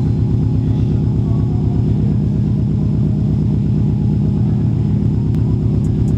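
Subaru Impreza STI flat-four boxer engine idling, heard at its exhaust tip as a steady low rumble with an even pulse. The engine is newly installed and running on its first start-up.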